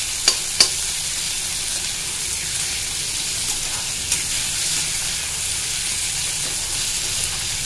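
Chopped onions and tomatoes sizzling steadily as they fry in oil in a kadai. A metal slotted spatula clicks against the pan twice just after the start and once about four seconds in.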